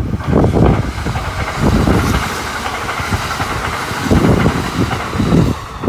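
Kintetsu 21020 series 'Urban Liner Next' limited-express electric train passing close by at speed: a steady rushing hiss of wheels and air, with low rumbling gusts of wind on the microphone.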